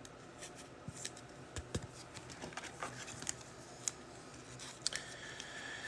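Trading cards being handled and flipped through by hand: faint, scattered light clicks and rustles of card stock.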